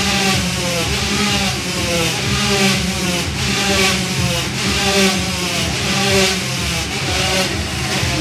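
Several motorcycle engines running continuously inside a spherical steel cage, their pitch rising and falling over and over as the riders loop around.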